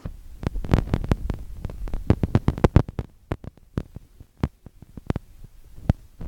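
A run of sharp, irregular clicks and knocks, crowded together for the first three seconds and then thinning out. It is plausibly the vibrating Celsius industrial ceiling fan, which has one bent blade, rattling as it runs.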